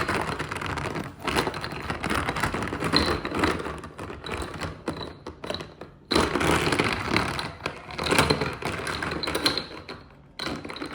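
Plastic toy cars clattering and rattling as they are handled, a dense run of small clicks and knocks that eases briefly about halfway through.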